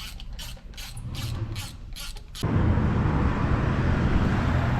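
Ratchet wrench clicking in short, even strokes, about three clicks a second, as the turbo's boost actuator is adjusted. About two and a half seconds in it cuts off suddenly and a louder, steady low rumble takes over.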